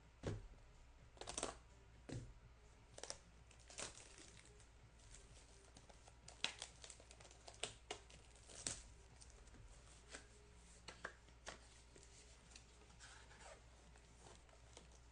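A boxed pack of trading cards being opened: its wrapping torn and crinkled in short, scattered rips and rustles, busiest over the first nine seconds and sparser after.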